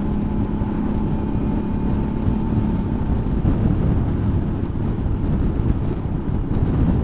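Suzuki V-Strom motorcycle running on the road, with a steady engine drone under wind and road rumble. The steady engine tone drops away about three and a half seconds in, leaving mostly wind and road rumble.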